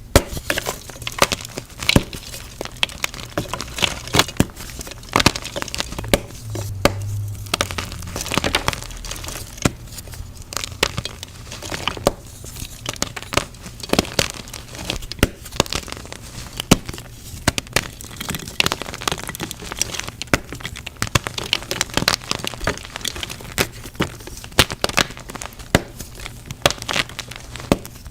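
Blocks of gym chalk being crushed, crumbling and crunching in a dense run of sharp, irregular crackles and snaps.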